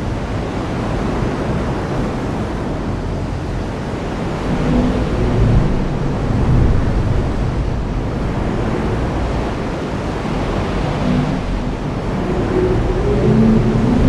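Heavy rain falling steadily, with low rumbles of thunder swelling up about a third of the way in and again near the end.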